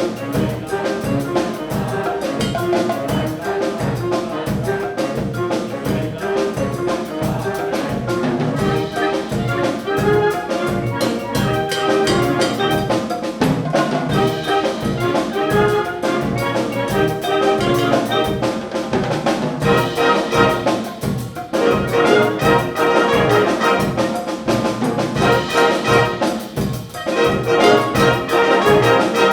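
Wind band playing a Latin-style piece, with trumpets and trombones over a steady beat from the percussion. About two-thirds of the way in the band comes in fuller and brighter, with two short breaks in the sound.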